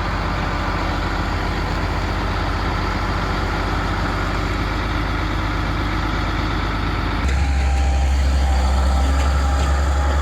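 Truck engine running steady while hauling a trailer of logs; it gets louder and deeper about seven seconds in.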